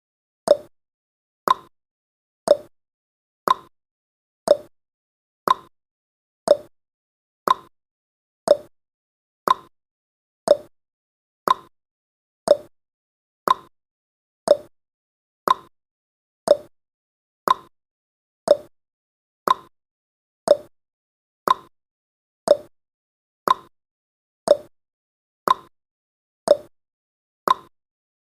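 Countdown timer's ticking sound effect: one short, sharp tick every second at a steady rate, alternating slightly in pitch like a clock's tick-tock.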